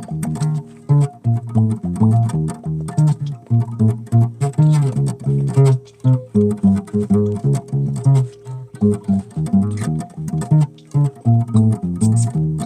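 Solo bass guitar played with fast plucked and slapped-sounding notes in a busy, rhythmic run, with short breaks between phrases.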